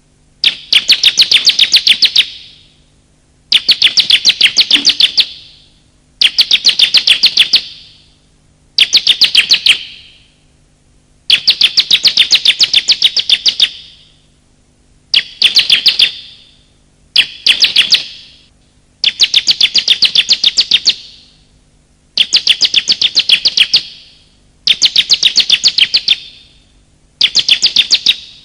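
Bar-winged prinia (ciblek) calling in repeated bursts of rapid, high, chattering notes. Each burst lasts a second or two, and the bursts come about every two and a half seconds.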